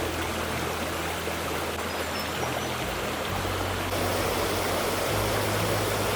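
A small rainforest creek babbling, a steady rush of running water, with background music faint underneath.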